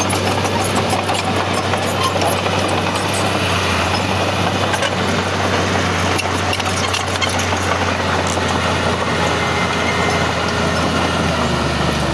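Heavy diesel engine of earthmoving machinery running steadily, with a constant low hum and scattered light metallic clicks and clanks.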